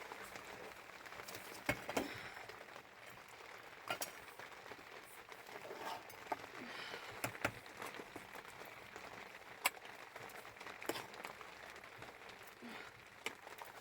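Scattered sharp clicks and knocks, about a dozen at irregular intervals, over a faint steady hiss.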